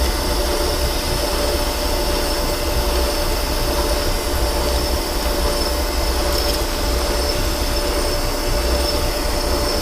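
Metal lathe turning a steel shaft with a carbide insert tool in a roughing cut: a steady running sound with a constant whine over the noise of the cut as chips come off.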